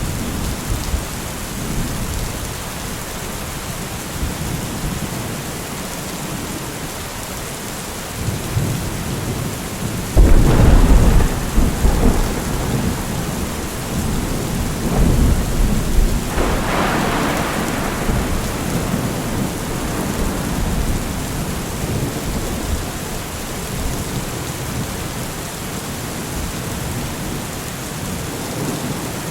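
Steady rain with thunder: a sudden loud crack and rumble about a third of the way in, a second rolling peal a few seconds later, then the rumble fades back under the rain.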